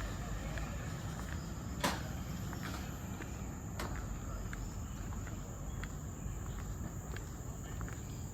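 Insects making a steady high-pitched drone over a low background rumble, with the soft ticks of footsteps at walking pace and one sharper tap about two seconds in.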